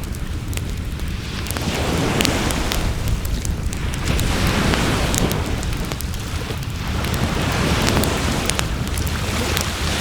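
Wood fire crackling and popping, with waves washing on the shore in swells every two to three seconds over a low rumble.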